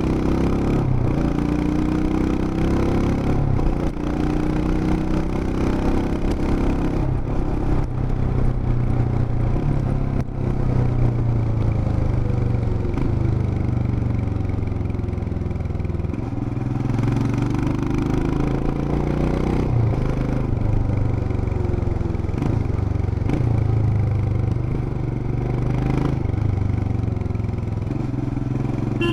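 Royal Enfield Himalayan BS6's 411 cc single-cylinder engine and exhaust running while the bike is ridden, its pitch rising and dropping several times with throttle and gear changes.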